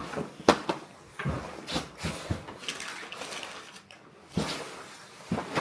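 Scattered knocks, bumps and clothing rustles in a small room, about half a dozen sharp handling noises, as people pull on bulky winter clothing.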